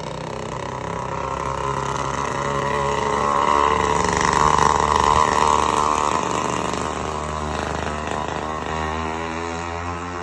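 A motor vehicle driving past, its engine sound swelling to a peak about four to five seconds in and then fading away.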